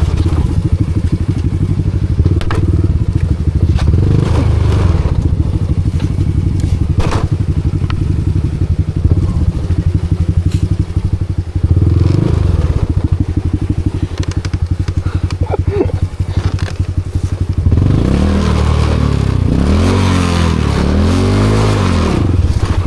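Honda Wave 125's single-cylinder four-stroke engine running under load as the bike climbs over wet rocks, with knocks and scrapes of the bike on stone. Near the end the revs rise and fall several times as the throttle is worked, with the bike hung up on the slippery rocks.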